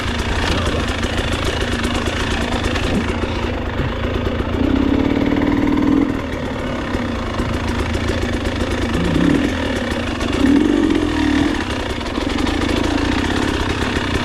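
Enduro motorcycle engine running, the revs picking up and easing off a few times, with louder bursts about a third of the way in and again past the middle.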